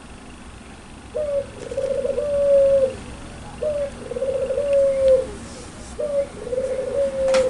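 A puter pelung, a domestic ringneck dove, cooing three times. Each coo is a short rising note, then a rolling trill, then a long held note that drops at the end. There is a sharp click near the end.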